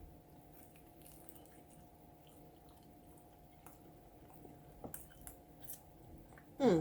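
Faint close-up chewing and small wet mouth clicks of a person eating a breakfast empanada topped with salsa and sour cream. Near the end comes a short appreciative "mm" hum that falls in pitch.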